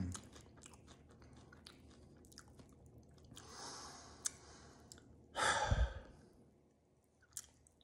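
A person chewing popcorn close to the microphone, with small wet mouth clicks, and a heavier breath out about five and a half seconds in.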